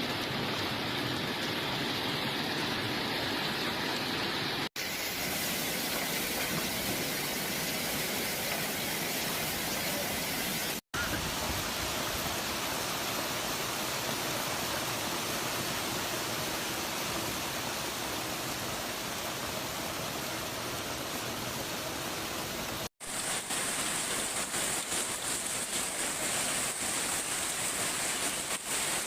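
Heavy rain pouring down in a steady rush, broken by three brief dropouts where one stretch of storm sound gives way to another.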